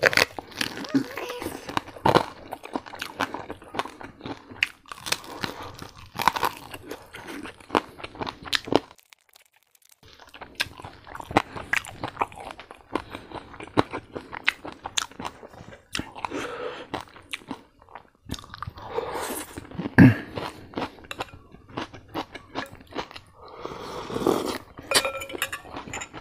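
Close-miked crunching and chewing of deep-fried crispy pork belly, its crackling skin giving sharp crunches with each bite, with a brief pause about nine seconds in.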